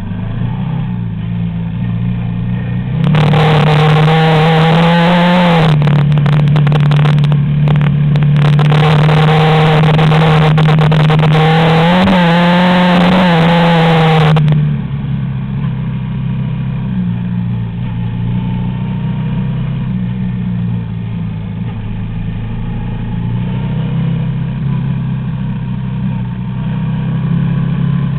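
Yamaha Raptor quad bike engine running under way on a gravel track, holding a fairly steady note with a few brief rises in revs. From about three seconds in to about fourteen seconds it is joined by a loud rushing hiss, then drops back to the plain engine note.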